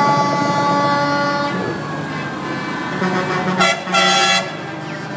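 Truck air horns blowing: a long held blast that ends about a second and a half in, then a short, loud blast a little before four seconds in. Truck engines run underneath.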